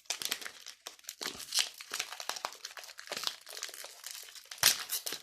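Foil wrapper of a Pokémon booster pack crinkling and tearing as it is opened by hand, in irregular crackles with one louder crackle near the end.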